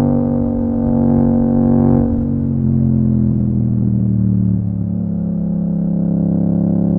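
Yamaha MT-07's parallel-twin engine through an Akrapovic exhaust, pulling under throttle. About two seconds in it eases off and the pitch falls, then it builds again near the end.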